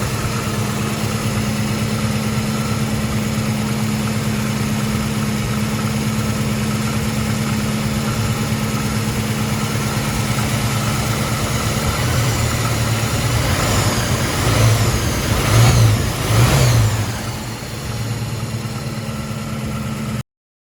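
Ford Mustang 5.0 L V8 idling steadily, then blipped several times in the second half, each rev rising and falling back, before settling to idle again. The sound cuts off suddenly just before the end.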